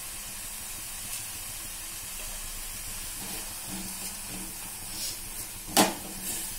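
Thick onion-tomato masala sizzling with a steady hiss in a nonstick pan, with a wooden spatula scraping and stirring through it from about three seconds in. One sharp knock, likely the spatula against the pan, is the loudest sound, near the end.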